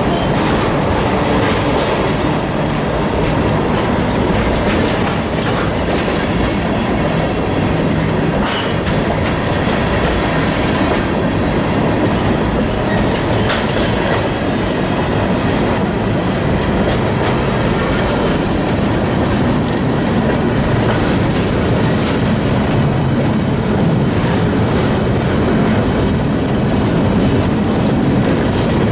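Freight train rolling past at steady speed, a continuous rumble of cars on the rails broken by scattered clicks of wheels over rail joints.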